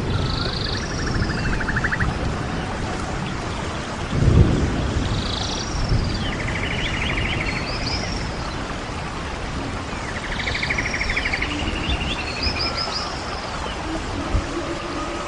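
Songbirds repeating a short phrase every few seconds: a high arched note and a buzzy rattling trill, over steady wind rumble that surges about four seconds in.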